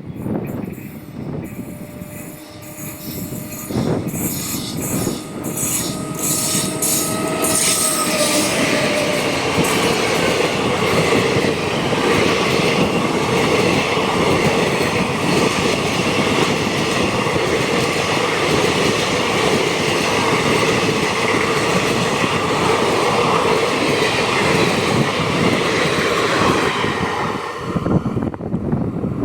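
Electric-locomotive-hauled Indian Railways train passing close at speed. A pair of steady tones slides lower in pitch over the first few seconds. Then the steady loud rush and clatter of wheels and coaches goes on for about seventeen seconds and cuts off sharply near the end as the train clears.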